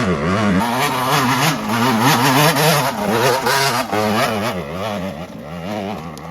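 Small dirt bike engine revving hard on a steep rocky climb, its pitch rising and falling several times a second as the throttle is worked over the rocks. It eases off over the last second or two.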